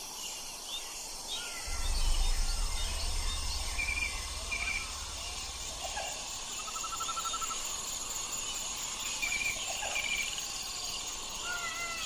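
Outdoor nature ambience: a steady hum of insects with birds giving short chirps and a brief trill. A low rumble starts about two seconds in, is the loudest sound, and fades out around six seconds in.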